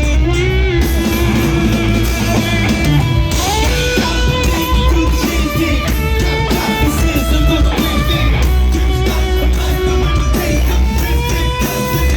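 Live rock band playing loudly: an electric guitar plays long held lead notes that bend and slide in pitch over drums and bass.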